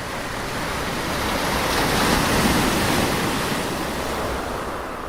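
Rushing roar of typhoon wind and crashing surf, swelling to a peak about two seconds in and then dying away.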